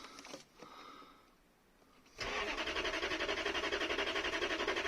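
Starter motor cranking the 1992 Lexus LS400's 1UZ-FE V8, which begins about two seconds in with an even pulsing beat. The fuel system has run dry after a fuel pump swap, so the engine has to turn over a few times before fuel can reach it.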